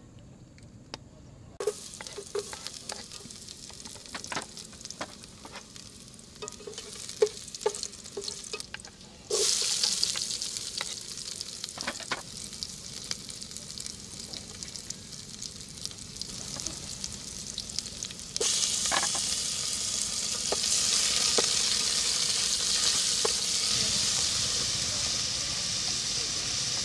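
Chopped onion frying in hot oil in an aluminium camping pot on a portable gas stove: the sizzle starts suddenly about a third of the way in, eases, then jumps louder again about two-thirds in and stays up. Light knife clicks on a wooden cutting board are heard throughout.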